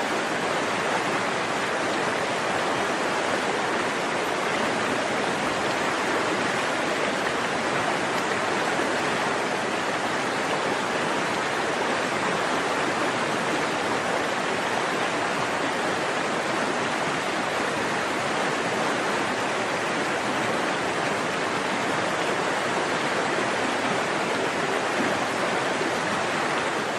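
Forest stream flowing steadily, an even rush of water over rocks.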